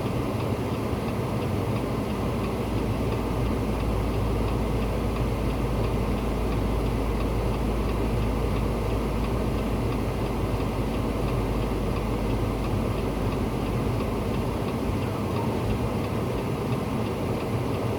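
A vehicle engine running steadily with a deep low rumble, heavier from about three seconds in until near the end.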